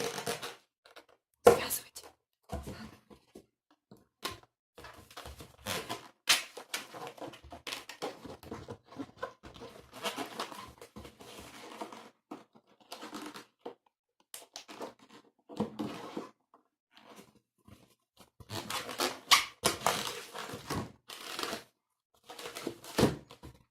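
Long latex modelling balloon being handled, twisted and its short ends knotted: irregular rubbing and handling noises in short bursts, busiest near the end.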